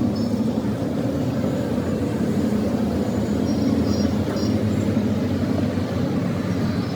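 Restored Petter diesel engine running steadily.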